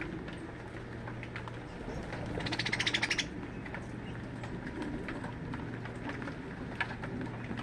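Birds calling, with one loud, rapid buzzy trill lasting about a second a couple of seconds in, over a steady background hiss and scattered small chips.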